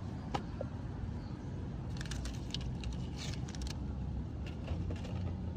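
Headlight restoration kit's packaging being handled: a few clicks, then a burst of crinkling and rattling about two seconds in, over a steady low background rumble.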